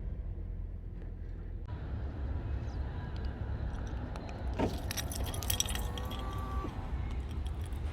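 Low steady rumble of a car's cabin while driving. From about halfway in, light metallic jingling and clicking joins it.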